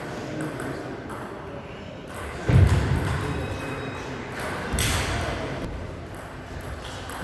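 Table tennis ball being played in a rally: a few sharp hits of the celluloid ball on bat and table, the loudest about two and a half seconds in.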